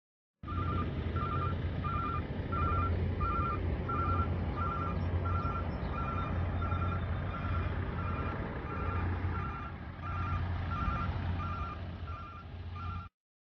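A vehicle's reversing alarm beeping steadily, about one and a half beeps a second, over a heavy engine idling with a low hum. The sound starts about half a second in and cuts off abruptly near the end.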